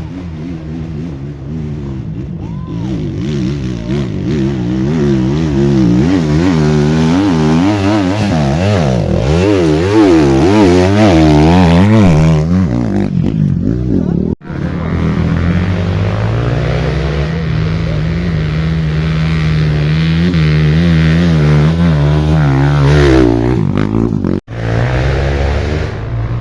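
Off-road motorcycle engines revving hard, their pitch rising and falling as the bikes climb and pass, with two sudden brief breaks in the sound.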